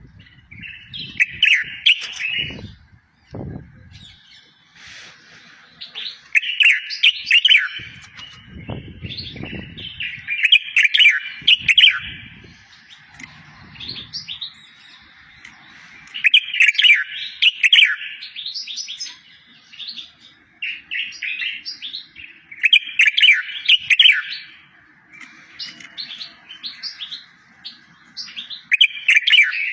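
Songbird song used as a tutor recording for goldfinches and canaries: fast warbled phrases about a second long, repeated every few seconds, with sharp high notes over them. A few low thuds sound in the first half.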